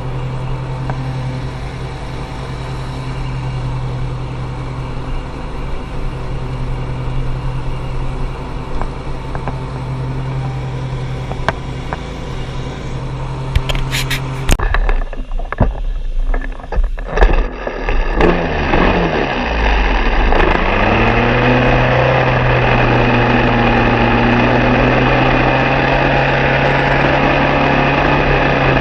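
An engine running steadily, then a few sharp clicks and a break about halfway through. An engine then starts, its pitch climbing for a few seconds before it settles into a louder, steady run.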